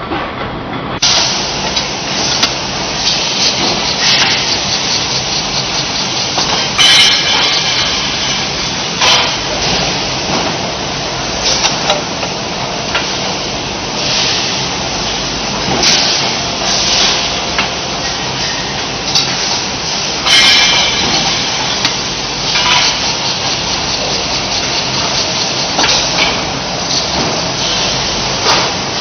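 Factory production-line noise: a steady din of machinery with frequent sharp metallic knocks, and two louder noisy bursts about 7 and 20 seconds in.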